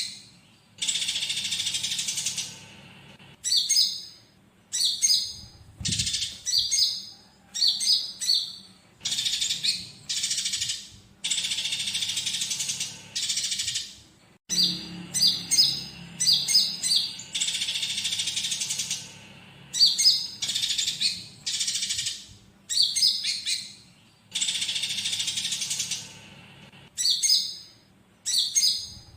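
Looped tutor recording of a konin singing, with fighting house-sparrow chatter mixed in: high chirping phrases repeat every second or two with short gaps. Long dense runs of rapid chattering alternate with sharp separate chirps.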